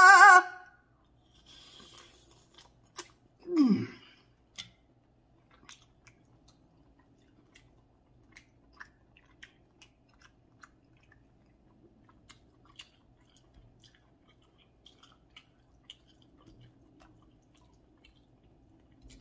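Close-miked chewing and mouth clicks: soft, irregular smacks a second or so apart, with a brief hummed 'mm' about three and a half seconds in.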